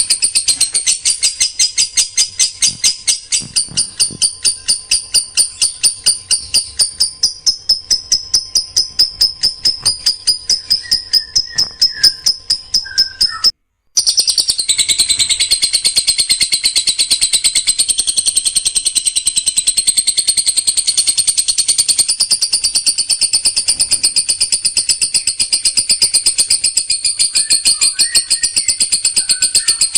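A songbird's dense, rapid-fire song of high, evenly repeated sharp notes ('tembakan rapat'), several notes a second, breaking off for a moment about halfway through.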